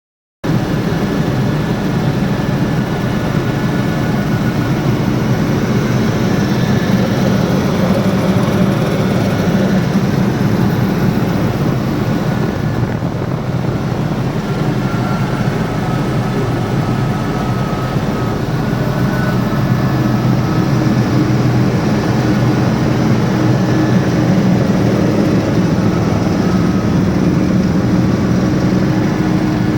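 Helicopter engine and rotor noise heard from inside the cabin in flight: a loud, steady drone that starts about half a second in.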